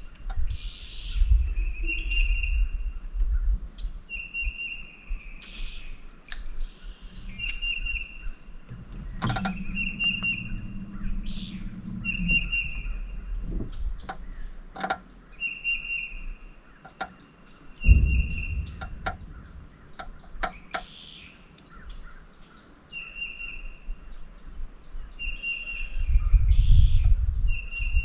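Songbirds singing: short high trills repeated every second or two, with a few rumbling surges of low noise at times.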